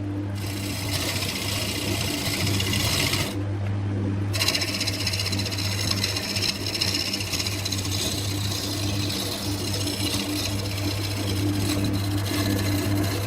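Wood lathe running with a steady motor hum while a turning tool scrapes and cuts the spinning wood. The cutting stops for about a second, roughly three and a half seconds in, then resumes.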